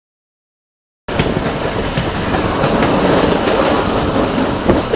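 Passenger train running along the track, heard from inside the coach: a steady rumble of wheels on rail with a few faint clicks, cutting in suddenly about a second in after silence.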